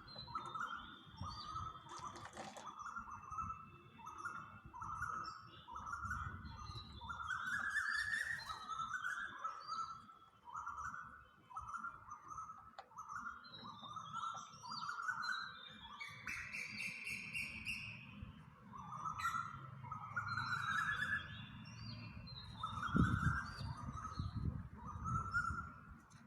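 Birds calling: one repeats a short rising note about twice a second, while others chirp higher and faster over it, with a longer higher call near the middle. A low rumble runs underneath.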